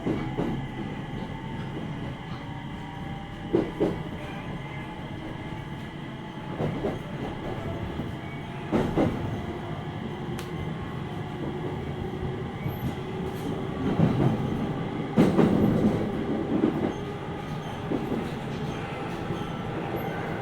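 A JR 701-series 5500-subseries electric train running, heard from inside the passenger car. The motor whine rises slowly in pitch as it gathers speed, over a steady rumble, and the wheels thump over rail joints several times.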